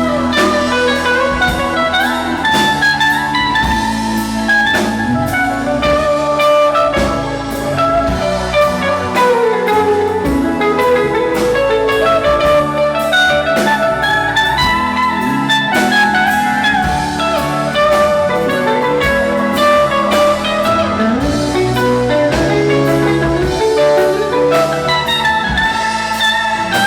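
Live band playing an instrumental passage: a gliding electric guitar lead over bass and drum kit.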